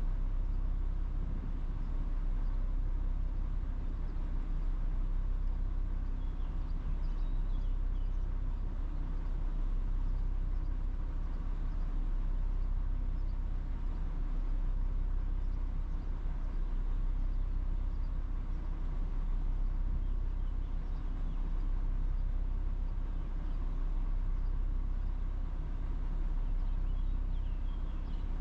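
A steady, unchanging low mechanical hum with a few faint short high chirps.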